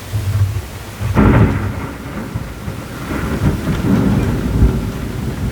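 Thunder rumbling, growing sharply louder about a second in and rolling on in swells, with steady rain underneath.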